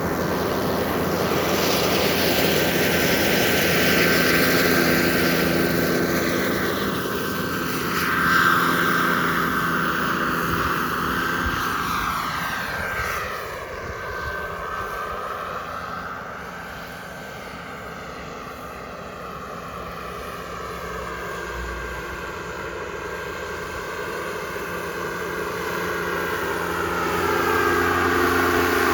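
A turbine-powered RC model jet in flight, its turbine engine whining steadily as the plane passes by. The sound swells in the first few seconds, fades to its quietest around the middle as the jet moves away, then grows louder again near the end as it comes back.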